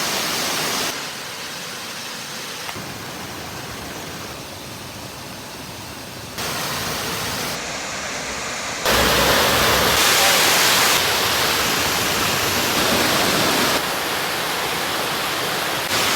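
Rushing water from waterfalls and streams, a steady roar that changes in loudness abruptly several times, loudest about nine seconds in.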